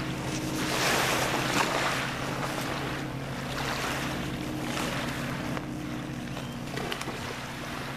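Water sloshing and wind buffeting the microphone in uneven surges, over a steady low hum.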